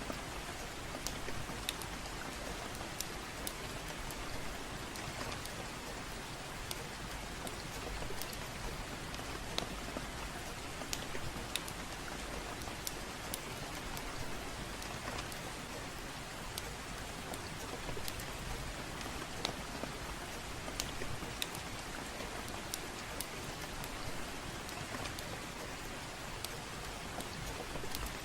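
Steady gentle rain falling, with many scattered sharp clicks and ticks through it.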